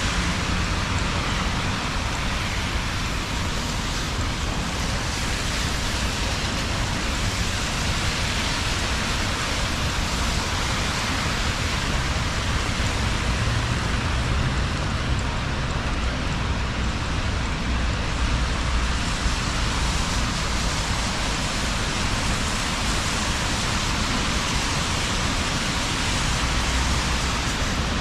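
Steady rain falling on a wet city street, with a low rumble of road traffic underneath.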